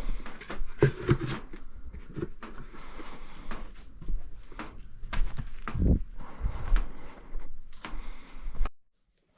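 Scattered knocks and low thumps over a steady high-pitched whine, all cutting off abruptly near the end.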